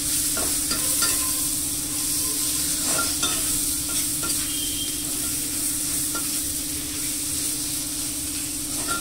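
Chopped tomatoes and onions sizzling in hot oil in a kadai while a steel spatula stirs them, scraping the pan now and then. A steady low hum runs underneath.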